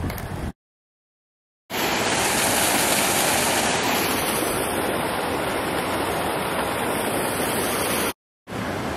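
Steady rush of a waterfall close to the microphone. It breaks off into dead silence for about a second just after the start and again briefly near the end, where the footage is cut.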